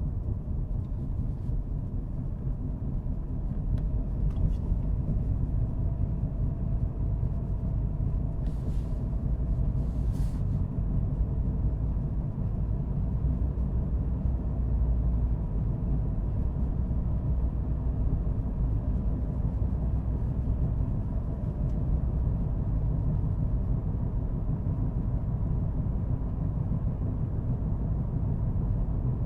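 A car driving at steady speed: a continuous low rumble of road noise and engine.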